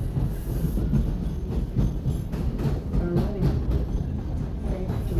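Toronto subway train running, heard from inside the car: a steady low rumble with irregular clicks and knocks throughout.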